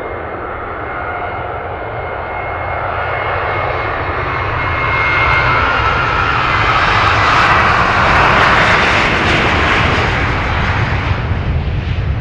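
Jet airliner's engines passing close by, a whine with high steady tones over a low rumble, swelling to its loudest about eight seconds in and then easing off into a rougher roar.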